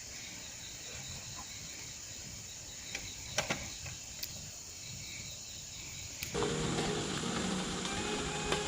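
Steady outdoor background noise with a few light clicks about three seconds in, changing abruptly to a fuller, busier background about six seconds in.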